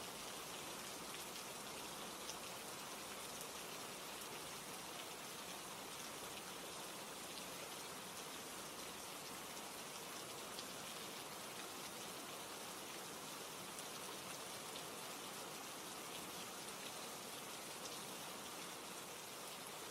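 Steady rain ambience, an even hiss of falling rain, with faint scattered clicks from a soft fireplace crackle mixed in.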